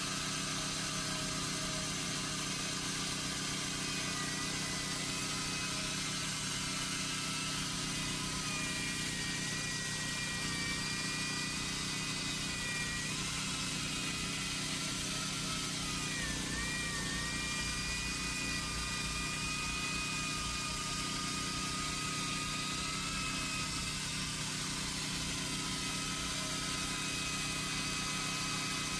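Chainsaw running steadily, a continuous motor sound with a thin high whine that wavers slightly in pitch around the middle.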